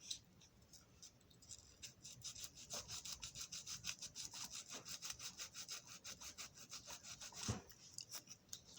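Sandpaper scrubbing the metal wheel of a Marx toy train locomotive by hand in quick back-and-forth strokes, several a second, sanding grime off the wheel tread and rim. There is a single light knock near the end.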